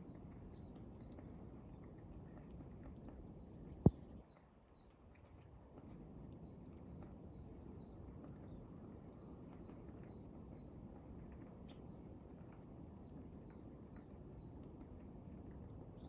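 A small songbird singing, repeating short phrases of several quick, high, descending notes every second or two over a steady low background noise. A single sharp click about four seconds in.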